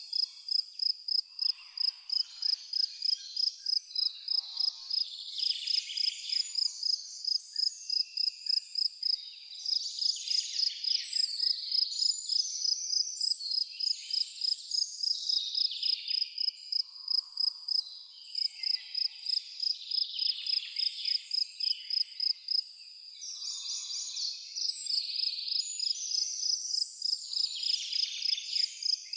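A cricket chirping in an even, high, rapid pulse of about three chirps a second, pausing briefly near the end. Other high insect chirps and buzzes rise and fall over it.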